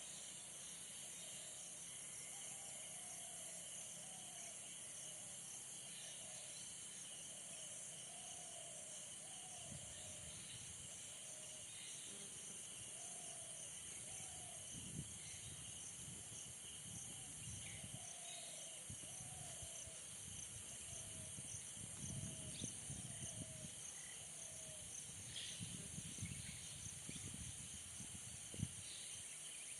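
Faint insect chorus: a steady high shrill throughout, over a run of short, evenly repeated lower calls that fade out about two-thirds of the way through. Low rumbling comes and goes in the second half, with one sharp click near the end.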